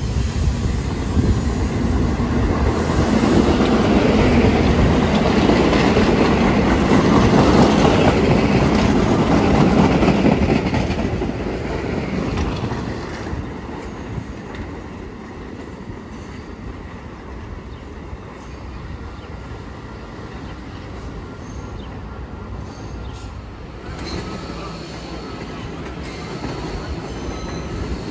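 Staten Island Railway electric train rumbling into the station on its steel wheels, loudest in the first ten seconds. It fades to a lower steady rumble, then grows louder again near the end as another train approaches.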